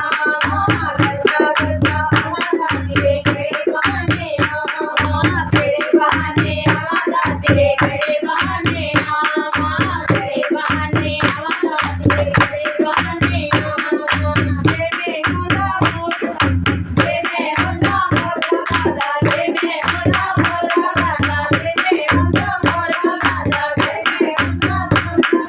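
Hindu devotional bhajan (kirtan) music: a hand drum keeps a steady beat a little under once a second under fast rhythmic hand clapping, with a wavering melody line over it.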